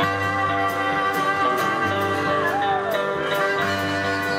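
Live country-rock band playing an instrumental intro: guitar with sliding, bending notes over bass and a steady drum beat with cymbal strikes about twice a second.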